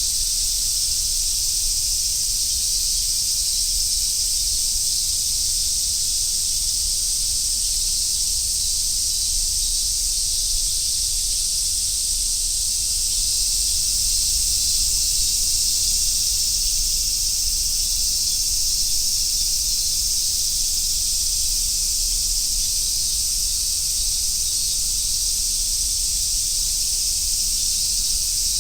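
Chorus of cicadas, among them large brown cicadas (aburazemi), making a dense, steady, high-pitched sizzling hiss that barely changes.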